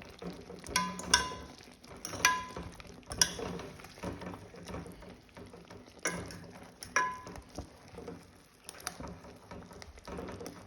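Metal utensil clinking and scraping against a cooking pot as pieces of chicken are turned over in it: a handful of sharp, ringing clinks at irregular intervals.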